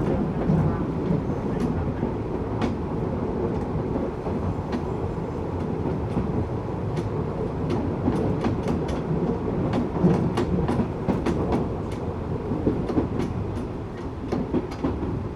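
Tokyu 8500 series electric train running: a steady rumble of wheels on rail with many sharp clicks and knocks, thickest in the second half, the level sinking a little near the end.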